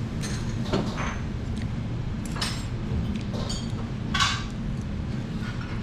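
Cutlery clinking against a plate a handful of times, the loudest clink about four seconds in, over a steady low background hum.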